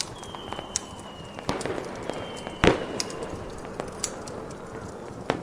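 Fireworks going off: a loud bang about two and a half seconds in, among scattered sharp pops and crackles over a steady hiss. Short high whistles dip slightly in pitch near the start and again just before the bang.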